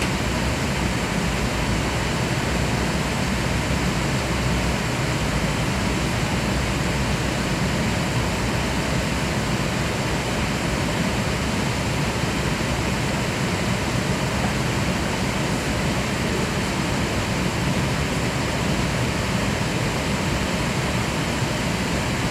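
Steady noise of an Airbus A380 airliner: an even, unchanging rush with a low rumble underneath.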